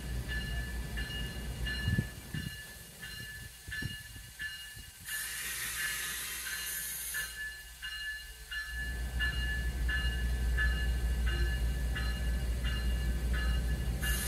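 MARC bilevel commuter train rolling slowly into the station with a low rumble. A grade-crossing bell rings steadily throughout, about one and a half strokes a second. A hiss of air comes in for about two seconds around five seconds in, and again near the end.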